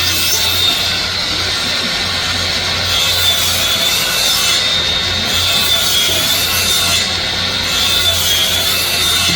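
Power miter saw running and cutting through wood, a steady sawing noise with a high blade whine that wavers as the cut loads the blade.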